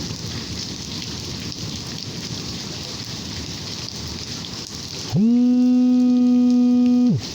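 Steady rain, then about five seconds in a loud, low, held tone that swoops up at its start and drops away after about two seconds.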